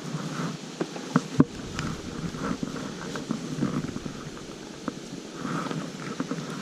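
A wet trap net with crawfish and a turtle inside being handled: steady rustling and scraping with scattered light clicks and taps, the sharpest about a second in.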